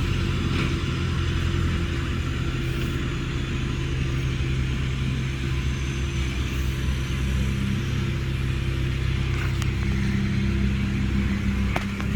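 An engine running steadily at an even speed: a continuous low drone.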